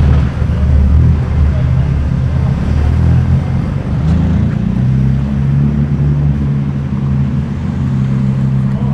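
A car engine running close by, its note rising about four seconds in and then holding steady, over street traffic noise.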